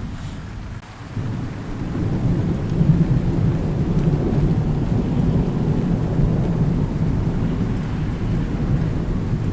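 Thunderstorm: steady rain with a long, low rumble of thunder that swells up about a second in and keeps rolling.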